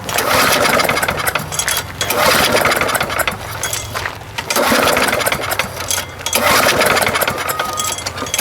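Walk-behind lawn mower engine being pull-started over and over, about four pulls roughly two seconds apart, turning over without catching: the engine has no spark.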